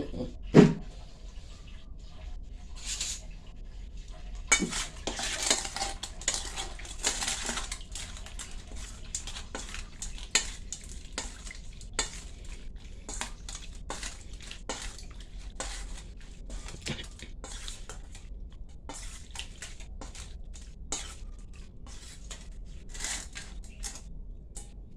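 A utensil clinking and scraping against a dish in repeated short knocks while food is stirred and mixed, with a denser stretch of scraping and rustling about five to eight seconds in.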